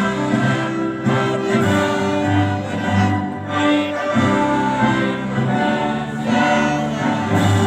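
Women's choir singing with instrumental accompaniment, in long held notes.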